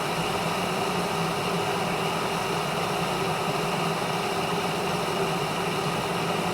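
Glass electric kettle heating water near the boil: a steady hissing rumble just before bubbling starts.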